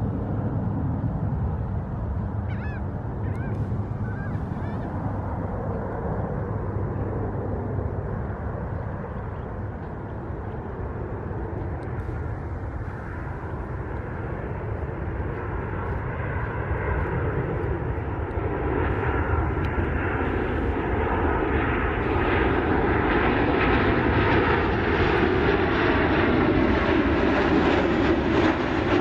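Jet airliner's engines approaching overhead, growing steadily louder over the last ten seconds or so.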